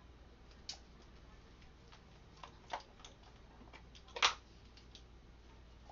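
A few scattered light clicks and taps of a measuring spoon against the jars as dried dill is spooned in, the loudest about four seconds in.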